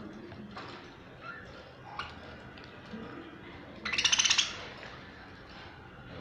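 A budgie's short burst of rapid chattering about four seconds in, over a few faint small clicks.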